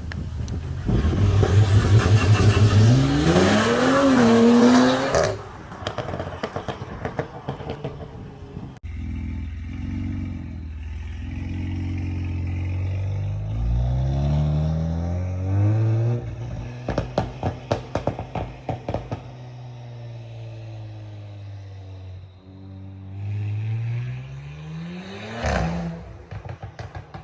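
Turbocharged Audi S5 engine accelerating hard, its pitch climbing steeply for the first few seconds. Further pulls through the revs follow, then a run of sharp exhaust pops and crackles as it comes off throttle. There is one quick rev blip near the end.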